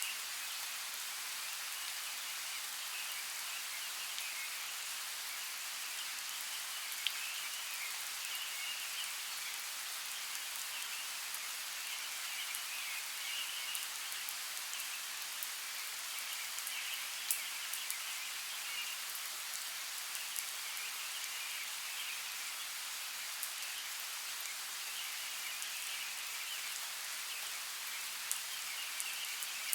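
Steady hiss of water with scattered sharp drip-like ticks, and a faint high trilling that swells and fades throughout.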